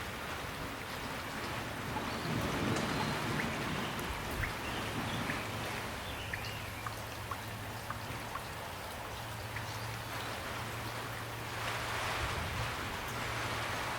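Steady, gentle rain: an even hiss of falling rain, with separate drops plinking now and then through the middle.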